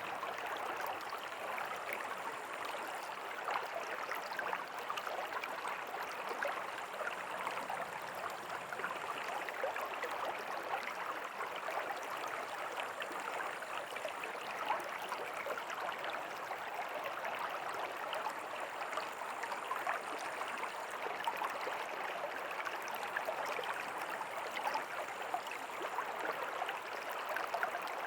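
River water flowing steadily over rocks, a continuous rushing and splashing with no break.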